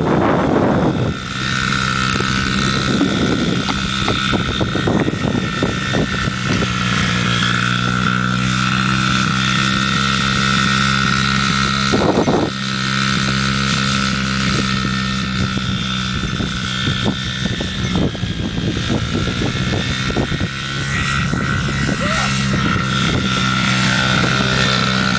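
Small Honda CRF50 dirt bike's 49cc four-stroke single running at a steady, even engine speed as it is ridden, with two brief gusts of noise, one at the start and one about halfway through.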